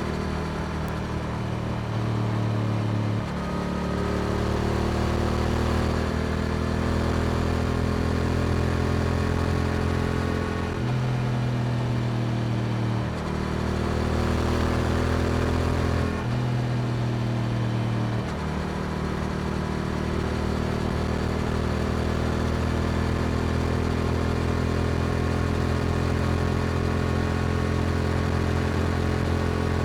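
Yamaha R7's parallel-twin engine breathing through an Akrapovic exhaust while riding. The engine note steps up and down in pitch several times in the first twenty seconds, then holds a steady cruise.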